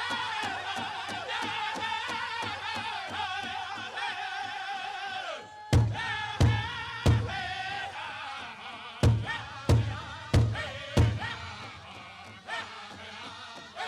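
Powwow drum group singing a chicken dance song in high voices over a fast, steady drumbeat on a big powwow drum. About five and a half seconds in, the steady beat gives way to loud, spaced hard beats, three and then after a short gap four more, before the lighter drumming and singing go on.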